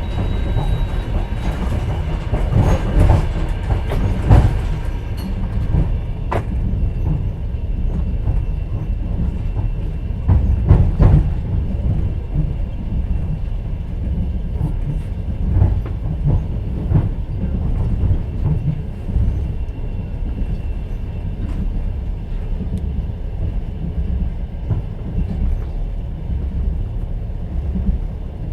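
Inside a moving passenger train's open-plan sleeping carriage: the steady low rumble of the running train with the clack of the wheels over the rail joints. A few sharper knocks stand out near the start and again in the middle.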